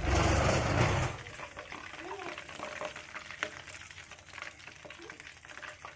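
Chicken legs sizzling and crackling in a pan, with stirring sounds. A loud rush with a low rumble fills about the first second.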